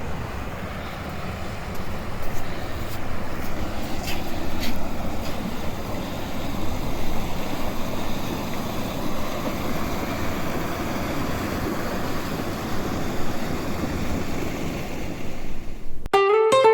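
A small 4x4 car driving, with steady road and wind noise. Acoustic guitar music cuts in near the end.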